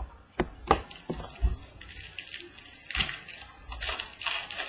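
Trading cards and their pack wrapper being handled: a few sharp clicks and taps, then two stretches of crinkling and rustling.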